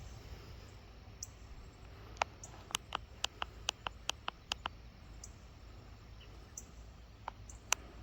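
Sharp taps and clicks of fingers handling a smartphone while its zoom and lens are changed: a quick run of about ten clicks over two and a half seconds, then two more near the end, over a low steady rumble of wind on the microphone.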